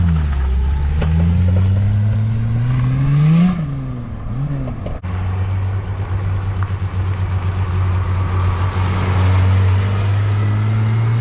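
Ford Capri 3.0's Essex V6 engine being revved, its pitch falling and rising to a peak about three and a half seconds in. It then gives one quick blip of the throttle and settles to a steady idle.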